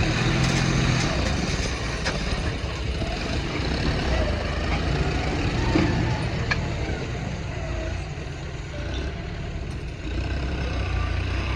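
Heavy diesel machinery running steadily, with a few sharp knocks about two seconds in and again near six and a half seconds.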